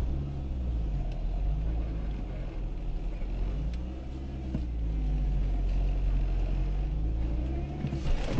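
A car driving: a steady low engine and road rumble, with the engine note slowly rising and falling.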